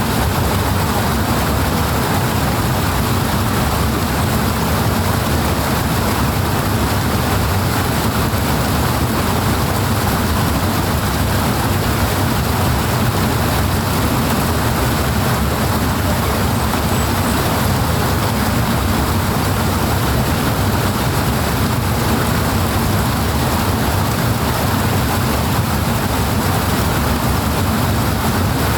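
Powerful rushing water, a steady, even roar with a deep low rumble that does not change.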